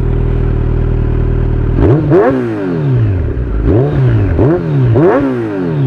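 Kawasaki Z900's inline-four idling through its Akrapovic exhaust, then revved in four quick throttle blips, each rising and falling back toward idle.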